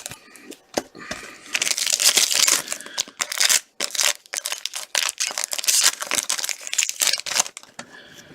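Rustling and crinkling of a hockey card pack's foil wrapper being torn open and handled, with cards clicking as they are sorted by hand; busiest from about a second and a half in until near the end.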